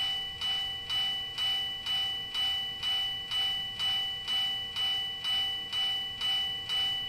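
Railway level-crossing warning bell ringing steadily, about two strikes a second, each ring fading before the next.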